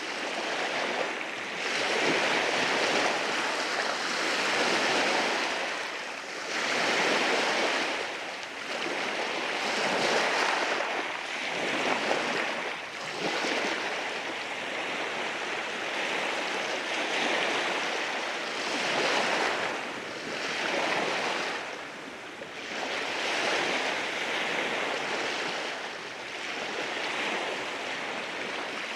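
Ocean waves breaking and washing over rocks on a rocky shore, the surf swelling and easing every two to three seconds.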